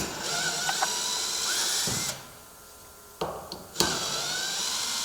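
Power drill-driver running in two runs of about two seconds each, its pitch rising slightly as it spins, backing out the screws that hold the stop at the top of a door; a couple of sharp clicks come between the runs.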